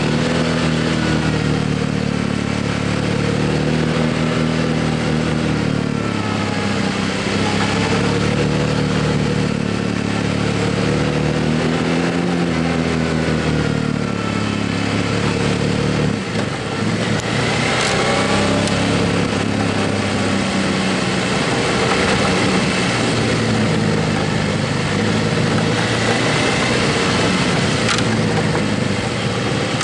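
Motorcycle engine under way on the road, its pitch climbing and dropping again several times as it accelerates and shifts gears, over a steady rush of wind noise.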